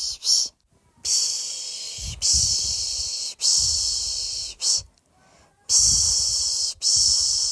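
A person shushing a baby to sleep: a steady run of long 'shhh' sounds, about one a second, each followed by a brief 'sh', with two short pauses, and a low rumble of breath on the microphone under each shush.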